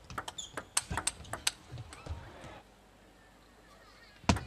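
Table tennis rally: the ball clicking sharply off paddles and table several times a second, thinning out and going quiet after about two and a half seconds, then one loud knock near the end.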